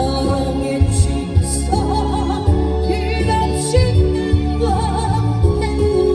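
A woman singing a Korean trot song with vibrato over amplified accompaniment, with a steady bass and a regular drum and cymbal beat.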